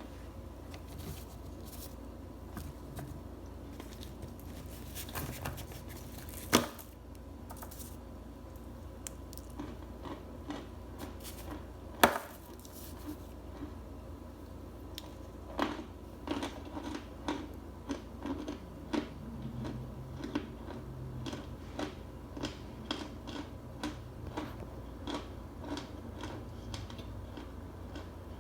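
Chunks of starch being bitten and crunched in the mouth: two sharp cracks about a quarter of the way and halfway in, then a run of crisp crunches, one to two a second, through the second half.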